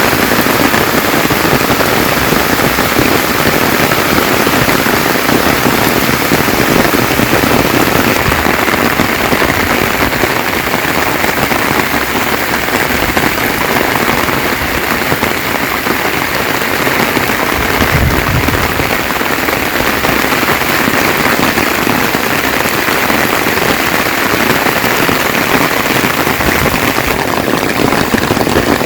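Heavy rain falling steadily, a dense even patter of drops on surfaces, with a brief low thump about two-thirds of the way through.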